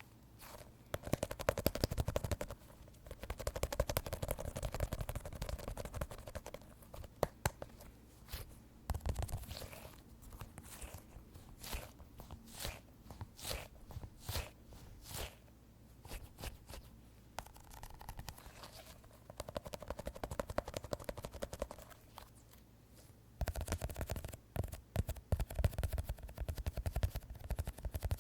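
Fingertips tapping and scratching on a soft squishy squeeze toy. Fast flurries of taps come near the start and again near the end, with slower separate taps about twice a second in the middle.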